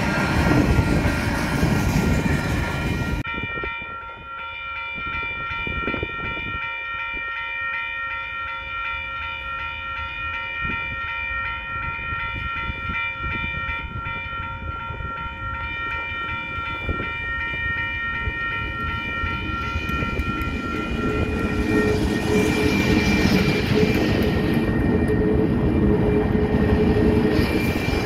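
Level-crossing alarm bell ringing steadily. Then a pair of KiwiRail DXC diesel-electric locomotives approach and pass under power, their engines and wheels building to a loud rumble over the last several seconds.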